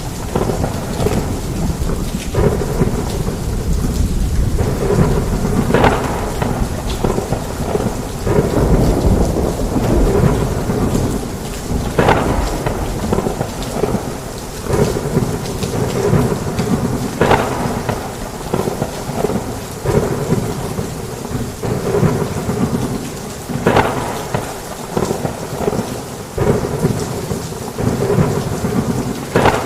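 Heavy rain with low thunder rumbling throughout, swelling and fading. Brief louder bursts come about every five or six seconds.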